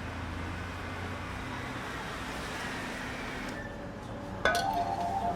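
Steady background rumble and hiss, then a sharp metallic or glassy clink with a short ringing tone near the end.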